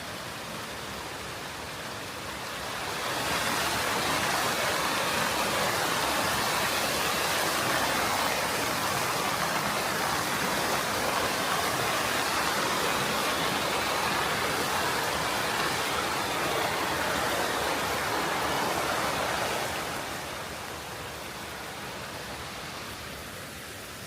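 Rushing river water: a steady, even rush that swells a few seconds in, stays loud for about sixteen seconds, then fades back near the end.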